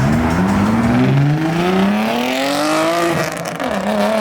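Sports car accelerating hard away, its engine pitch climbing steadily, dropping sharply at an upshift about three seconds in, then climbing again in the next gear.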